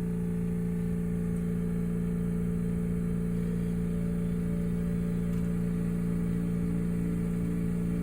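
Osaka Metro New Tram, a rubber-tyred automated guideway train, running: a steady drive hum over low rolling rumble. A faint pulsing tone joins about halfway through.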